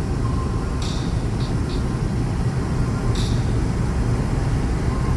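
Snow-removal vehicle's engine running with a steady, heavy low rumble. A short hissing swish repeats about every two and a half seconds over it.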